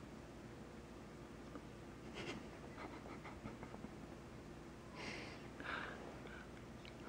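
Toy poodle snoring faintly in her sleep: a few soft, breathy snores at irregular intervals, the clearest two about five and six seconds in.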